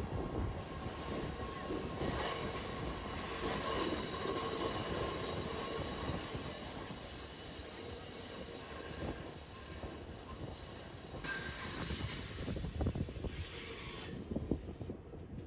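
Rocky Mountaineer passenger train running along the track: a steady rumble and rattle of the wheels on the rails, with a faint high squeal of the wheels at times.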